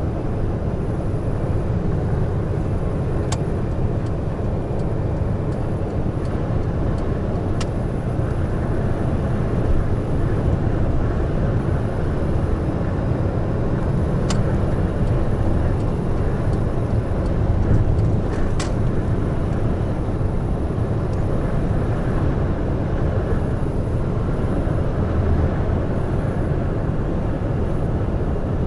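Large truck driving at expressway speed: a steady drone of engine and road noise, with a few sharp ticks scattered through it.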